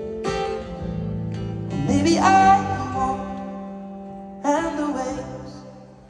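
Live acoustic guitar and male voice performing a slow ballad: a few strummed chords, near the start, about two seconds in and about four and a half seconds in, each left to ring out under a sung line.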